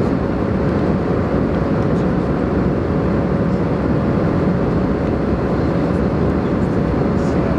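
Steady rushing cabin noise of an Airbus A320 in cruise flight, engine and airflow noise together, with a faint steady tone running through it.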